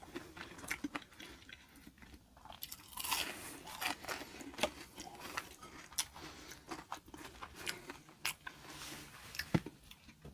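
Close-miked chewing and biting of a crunchy breaded jalapeño popper, with irregular sharp crunches throughout.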